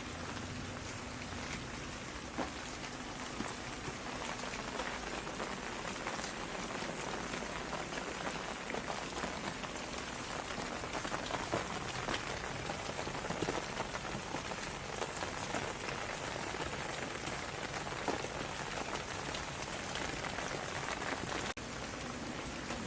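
Steady rain falling, with many distinct drops ticking on a surface through an even hiss. The level dips briefly near the end.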